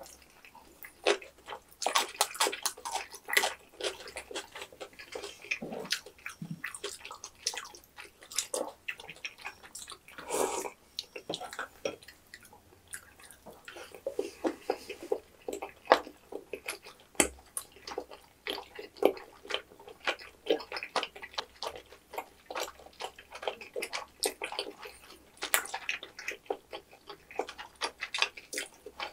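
Close-miked chewing of two people eating: a steady run of small wet clicks and squelches, with a short louder sound about ten seconds in.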